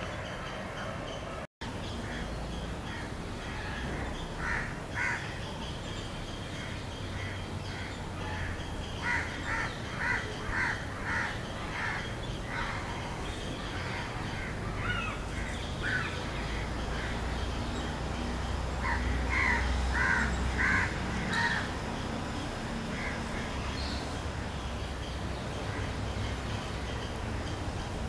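A bird calling in runs of short repeated calls, about two or three a second, several times over, above a steady low background rumble.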